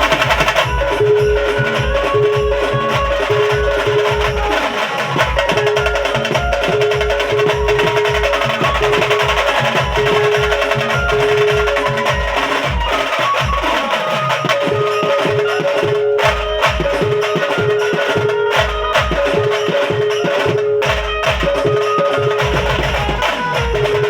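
Banjo party band music played loud through a DJ sound system: a heavy bass drum beat about twice a second under dense percussion and a repeating melody line. The bass beat drops out briefly a few times.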